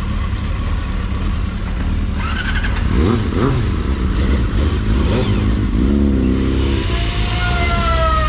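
Motorcycle on the move, a steady rumble of engine and wind, with engine revs rising and falling a few times and a rising whine near the end.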